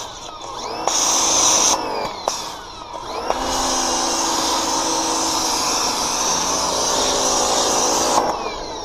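Pressure washer running and spraying soap through a foam cannon, its motor humming under the hiss of the spray. A short burst about a second in, then a long spray from about three and a half seconds to about eight seconds, the motor's pitch sinking as each burst stops.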